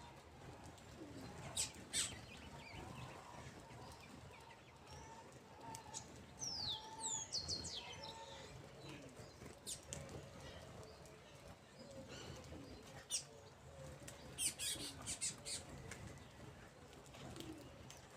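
Small birds feeding: scattered sharp clicks and brief wing flaps, with a cluster of clicks near the end and a few short, high, falling chirps about seven seconds in.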